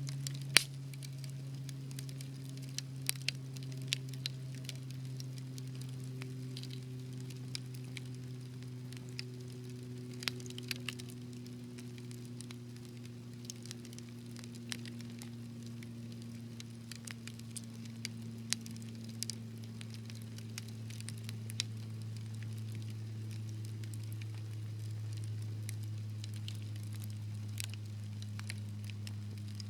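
Wood fire crackling, with irregular sharp pops and snaps over a faint sizzle. A steady low hum runs underneath, slowly sinking in pitch.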